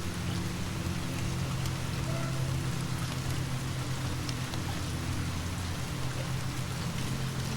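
Steady rain falling, with a few faint scattered pops and a low steady hum underneath.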